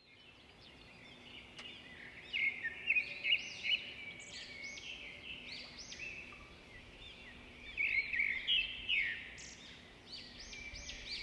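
Many small cage birds chirping together, quick overlapping high calls that swell twice, around the third second and again around the eighth, over a faint steady low hum.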